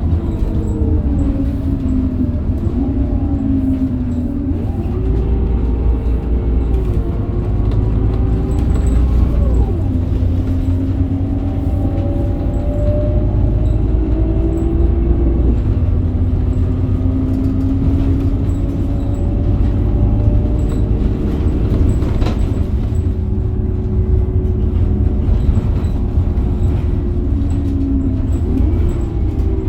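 Scania DC9 five-cylinder diesel of a Scania K270UB bus running under way through its ZF Ecomat automatic gearbox, with a steady low road rumble. The engine note climbs and falls back several times as the bus accelerates and the gearbox shifts, with a clear drop about nine seconds in.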